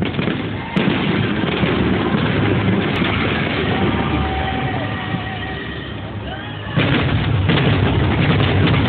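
Aerial fireworks shells bursting in rapid succession, a dense run of booms and crackles. A sudden louder burst comes about a second in and another near the end.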